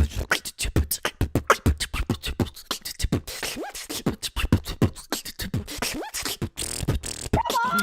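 Beatboxing: fast, dense vocal percussion of kick drums, snares and hi-hat clicks, with deep bass sounds and a few sliding pitched vocal effects.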